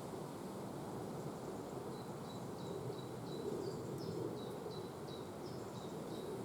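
A small songbird singing a run of short, high, evenly spaced notes, about three a second, starting about two seconds in, over steady low outdoor background noise.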